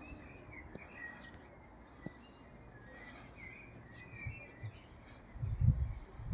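Birds chirping faintly, with short scattered chirps throughout. A few low muffled thumps come near the end.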